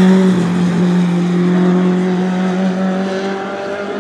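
Rally car engine held at steady high revs, its pitch barely changing, growing slightly quieter near the end as the car moves away.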